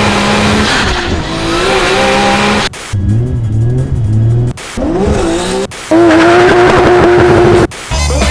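Drift cars with engines revving hard and tyres squealing, in several short clips cut abruptly one after another.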